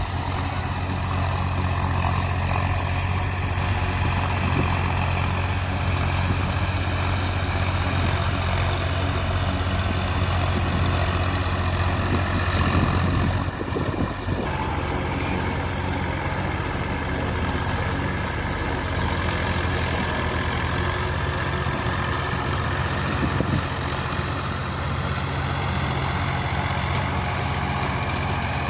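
Massey Ferguson 245 DI tractor's three-cylinder diesel engine running steadily with a deep drone. About halfway through the drone drops briefly, then goes on a little lower.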